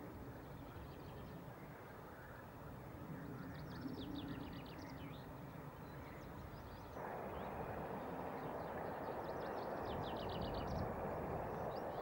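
Outdoor ambience: a songbird sings two short runs of rapid, high repeated notes over a low rumble. About seven seconds in, a steady rushing noise starts abruptly.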